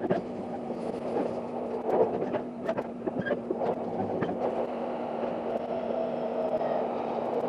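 Express train running, heard from inside a passenger car: steady rolling rumble and a low hum, with frequent short clicks from the wheels and track.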